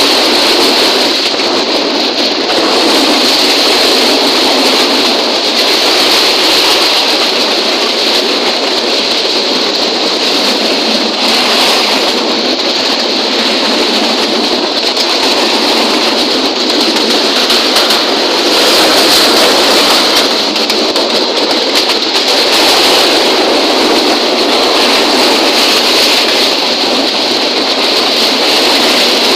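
Train running, a loud steady rushing noise with slow swells.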